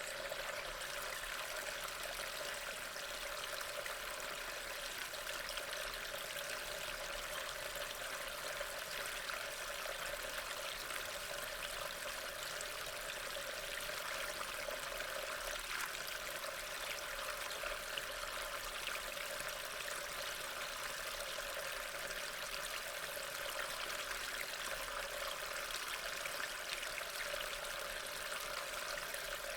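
Steady rain: an even, continuous hiss of falling water with a fine scatter of drops, unchanging throughout.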